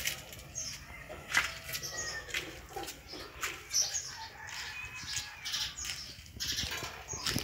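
Small birds chirping in short, high, repeated calls, over rustling and scattered light clicks.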